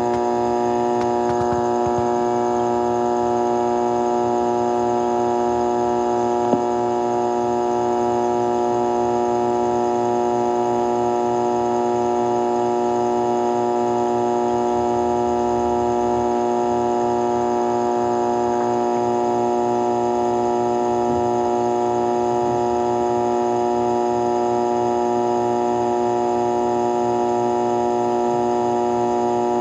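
AM broadcast transmitter humming steadily: a loud, unchanging buzz of many steady tones, with a single click about six and a half seconds in.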